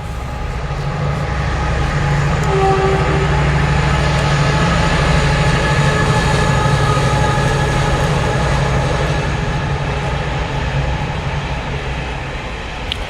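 Freightliner Class 70 diesel-electric locomotive, with a GE PowerHaul V16 engine, running through the station without stopping and hauling its freight wagons. A steady low engine drone is mixed with wheel and rail noise. The sound builds over the first few seconds, stays loud through the middle and eases off near the end.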